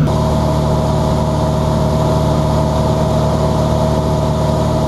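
Cessna 182's piston engine and propeller droning steadily in level cruise, set to reduced cruise power with the mixture leaned.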